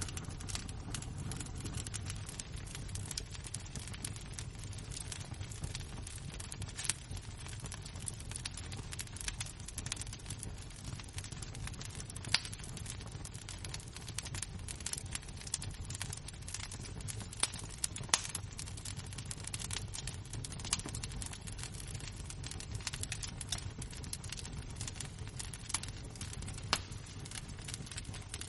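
Fire of glowing embers and flames crackling: a steady run of small clicks and snaps over a low rumble, with a few louder pops scattered through.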